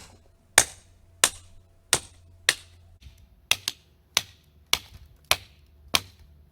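Nata (Japanese hatchet) chopping hardwood into kindling: about eleven sharp blows, roughly one every half second or so, with a short pause near the middle.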